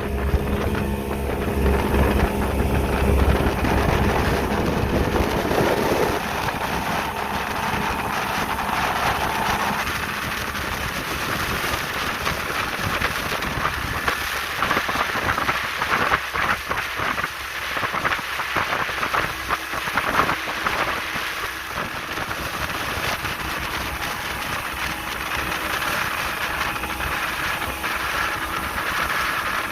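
Speedboat underway: the engine hums steadily for the first several seconds, then its tone fades under a loud rush of water spray and wind noise with irregular crackling splashes against the hull.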